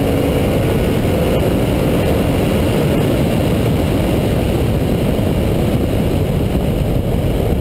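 Twin-turbo S550 Mustang's engine tones fade out about half a second in. They give way to a loud, steady low rushing noise with no clear engine note.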